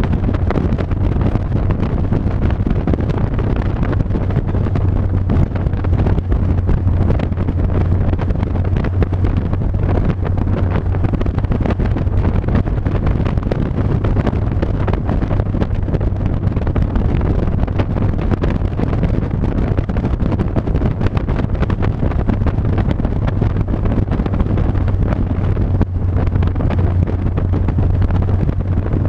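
Steady low engine drone and road noise from a moving vehicle at cruising speed, with wind buffeting the microphone.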